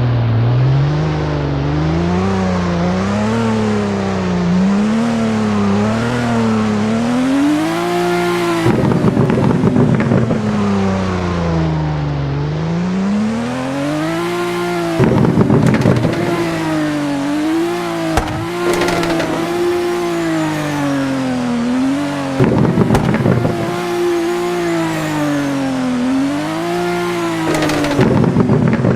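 Toyota Supra engine and exhaust revving again and again, the pitch climbing and falling every few seconds. Short harsh bursts break in about four times.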